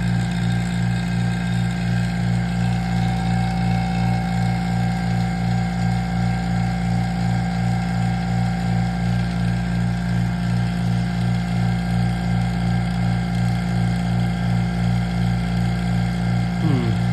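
Two vacuum pumps running together: a steady, loud hum with a regular pulsing throb a few times a second.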